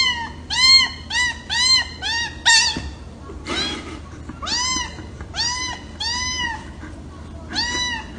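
A cat meowing over and over in quick, short meows, about a dozen of them. About three and a half seconds in there is a brief hissing rush.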